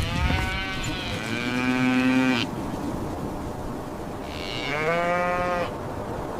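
Cow mooing twice: one long call whose pitch drops partway through, then a shorter second moo about four seconds in.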